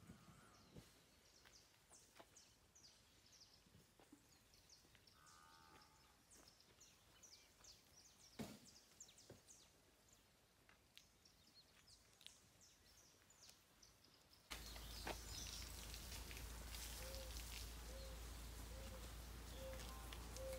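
Near silence with faint bird chirps and a few small clicks. About two-thirds in, a steady background hiss comes up and a bird starts a low call repeated about every two-thirds of a second.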